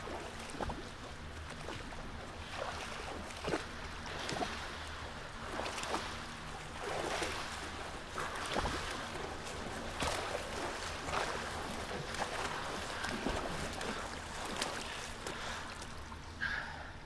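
Water splashing and sloshing in irregular bursts over a steady low hum.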